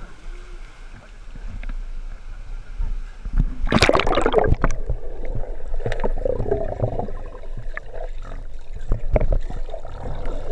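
Water splashing and sloshing, with one loud splash about four seconds in and scattered sharp knocks.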